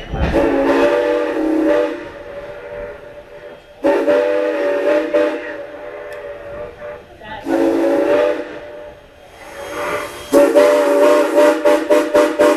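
Steam whistle of ex-Canadian National 2-6-0 No. 89 sounding four blasts, each a chord of several tones. The last blast is the longest, with hissing steam between the blasts.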